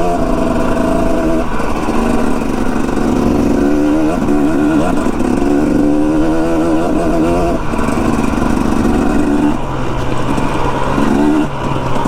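Dirt bike engine running under way, its pitch rising and dropping several times as the throttle is worked.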